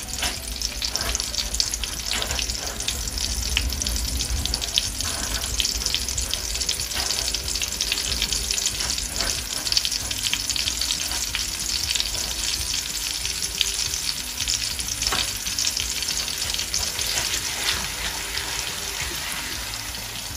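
Chopped garlic and ginger sizzling steadily in hot oil in a karahi, with many fine crackles, as they fry to cook off their raw taste. A wooden spoon stirs them near the end.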